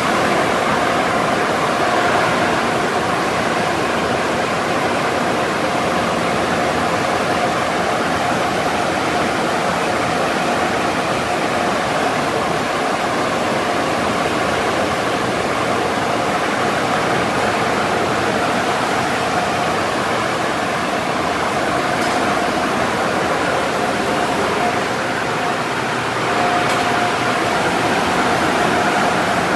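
Car wash running: a steady rushing hiss of water spray with a faint steady machine tone under it.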